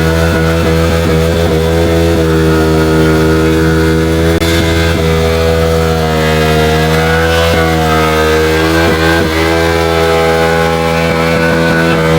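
KTM RC 390's single-cylinder engine held at high revs during a burnout, the rear tyre spinning in place. The engine note stays loud and steady, with a few slight dips and rises in pitch.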